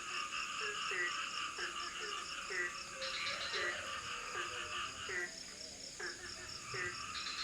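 Frogs calling in tropical forest, short falling notes repeated about twice a second with a short pause about five seconds in, over a steady high-pitched hum of insects.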